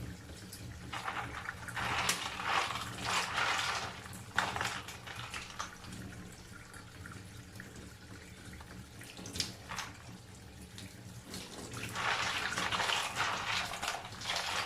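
Mussels being rinsed under a running kitchen tap: water runs in two spells, about a second in and again near the end, with a few sharp clicks in between.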